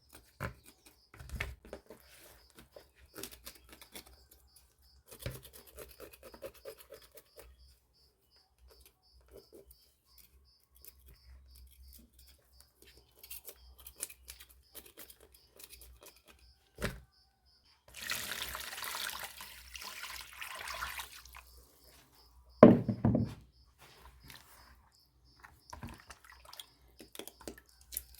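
A knife scraping leftover scales off a fish in short, intermittent strokes. About 18 seconds in, water pours or runs for roughly three seconds. A loud knock follows at about 23 seconds.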